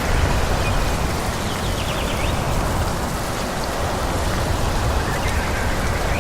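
Steady wind through forest trees with a strong low rumble. Faint bird chirps come through about two seconds in and again near the end.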